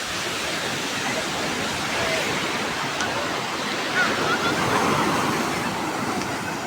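Rough sea surf: a continuous wash of breaking waves that swells twice, about two seconds in and again about four to five seconds in.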